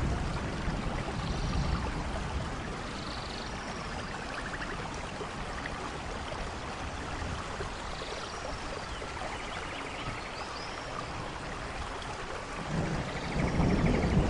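Steady rainfall hissing evenly, with a low rumble of thunder fading at the start and another building up near the end. A few faint high chirps sound over the rain.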